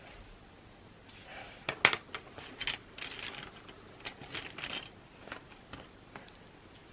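Desk sounds from someone studying: a run of small clicks, knocks and paper-like rustling, with the sharpest click about two seconds in, fading out over the next few seconds.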